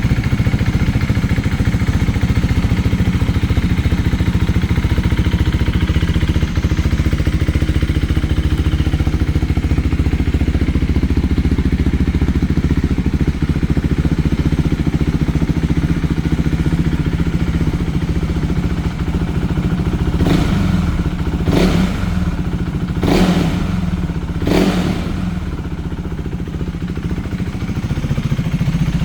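KTM 390 Duke's single-cylinder four-stroke engine idling steadily, with four short throttle blips in quick succession late on.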